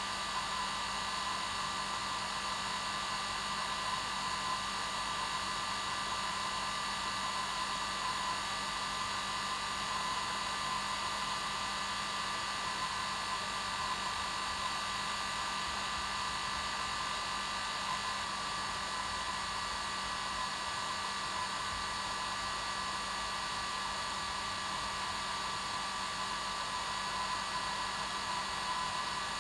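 Hair dryer running steadily on its normal setting: an even rush of air with a steady motor whine and hum.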